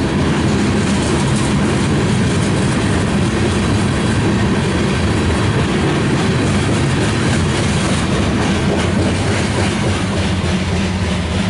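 CSX freight train cars rolling past at close range, a steady heavy rumble with continuous wheel and rail clatter.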